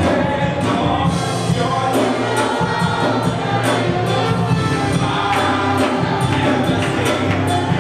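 Worship band and singers performing a gospel song, with sung melody over bass and a steady beat of tambourine or drums.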